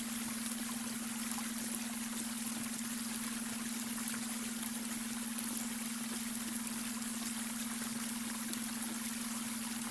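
Babbling brook, water flowing and trickling steadily, with a steady low hum of a beta-wave brainwave tone under it.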